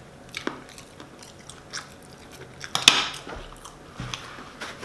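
A person chewing a mouthful of food with wet smacking mouth sounds, heard as a few short clicks and smacks, the loudest about three seconds in.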